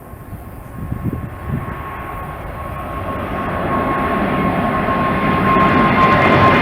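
Jet airliner's engines growing steadily louder as it approaches, a rising rumble with a steady whine on top.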